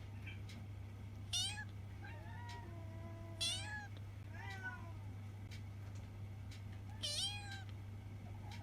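Young tuxedo kitten meowing in its distinctive voice: three loud, high meows that each fall in pitch, with softer calls between them. A steady low hum runs underneath.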